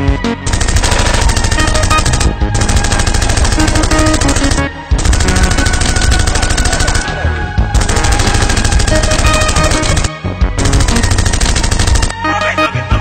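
Rapid automatic gunfire in about five bursts of roughly two seconds each, separated by short breaks, with background music underneath.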